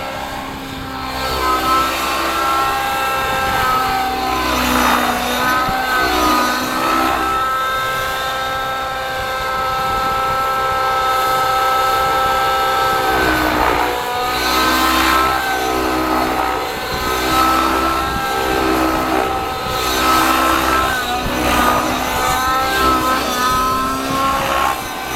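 Engine of a Gaui NX7 radio-controlled helicopter running at flying speed with its rotor, the pitch dipping briefly and recovering several times as the rotor is loaded in manoeuvres.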